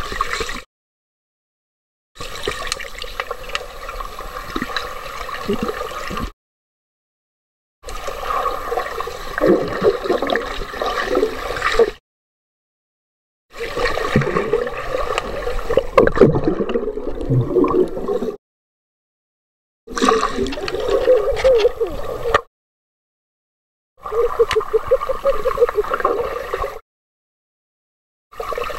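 Muffled gurgling and sloshing of water recorded with the camera underwater in a swimming pool. It comes in several short bits of a few seconds each, broken by sudden gaps of silence.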